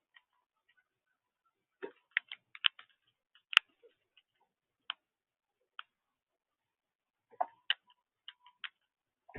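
Irregular sharp clicks and taps in short clusters, typical of small birds pecking and cracking seed at a feeder, with a louder tap about three and a half seconds in.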